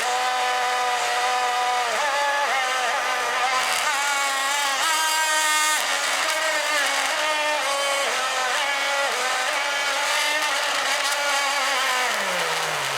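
A small electric motor whining at a pitch that wavers and shifts up and down, then winds down with a falling pitch near the end as it is switched off.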